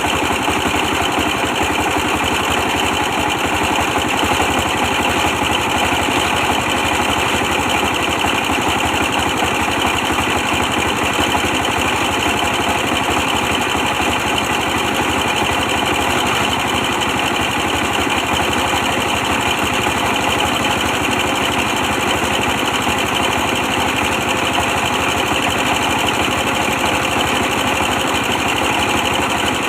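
A 24 hp stationary diesel engine powering a pressed-brick machine, running steadily at constant speed.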